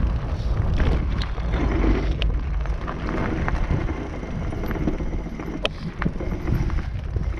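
E-bike rolling along a dirt trail: tyre rumble with scattered clicks and rattles, under wind buffeting the camera's microphone.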